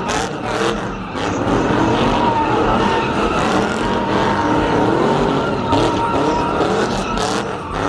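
Car spinning its tires in a burnout, with a steady high tire squeal over the engine revving; the tires are being worn down.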